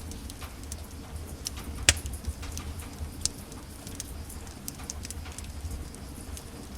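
Wood fire burning in a fireplace, crackling with irregular small snaps and a sharp pop about two seconds in, over a low steady rumble of the flames.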